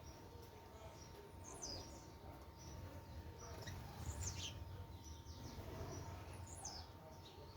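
Small wild birds calling at a feeding spot: high, sharply falling chirps about every two and a half seconds, with a few short higher notes between them, over a low background rumble.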